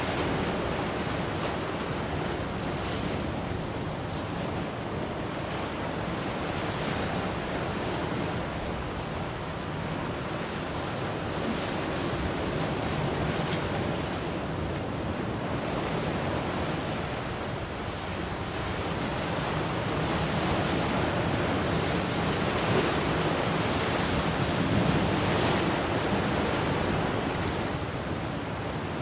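Ocean waves breaking and washing on the shore, a continuous surf noise that swells and eases every few seconds, with some wind on the microphone.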